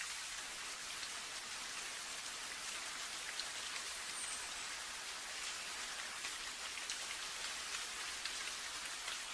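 Steady rain, a dense even hiss with many small drop ticks spread through it.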